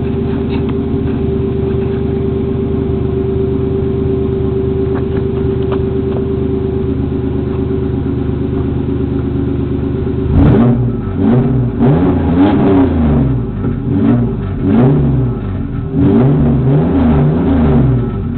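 1989 Toyota pickup's 3.0 V6 running through headers, a high-flow cat and a Flowmaster dual exhaust. It idles steadily for about ten seconds, then is revved in a series of quick blips, each rising and falling in pitch.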